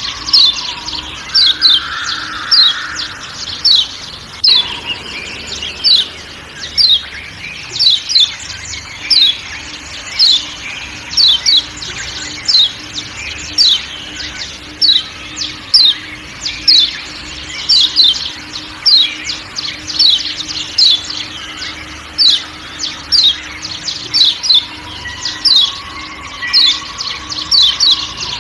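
Yellow white-eye (kecial kuning) giving repeated 'ciak ciak' calls: short, sharp, falling notes, often in twos and threes, about one or two a second, over a steady forest background.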